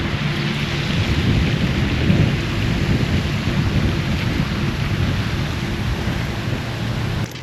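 Steady rain with a low rumble beneath it, cut off suddenly near the end.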